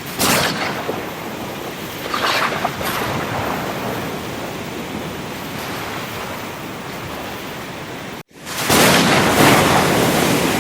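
Ocean surf: waves breaking and washing in as a steady rush, with surges about a second and two seconds in. The sound cuts out for an instant about eight seconds in, then comes back louder.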